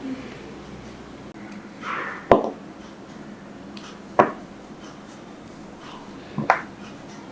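Knife cutting through a block of glycerin soap: three short, sharp cuts about two seconds apart, the first led in by a brief scrape and the last a quick double knock.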